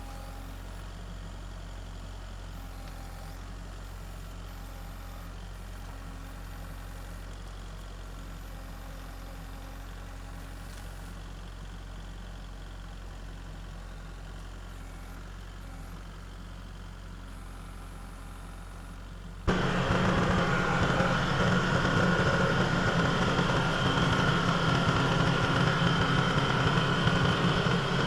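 A motor engine idling steadily, then, about 19 seconds in, the sound switches abruptly to a much louder engine running hard.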